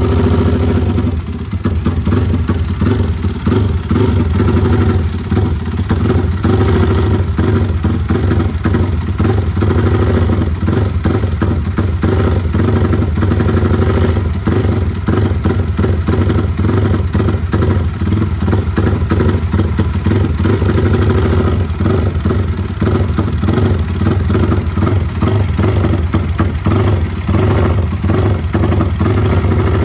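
Race-built Yamaha Vixion single-cylinder motorcycle engine running steadily and loudly.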